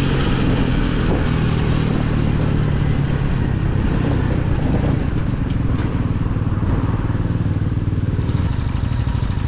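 Motorcycle engine running under way with wind noise on the microphone, then easing off from about halfway, the wind dropping and the engine settling into a slower, pulsing beat.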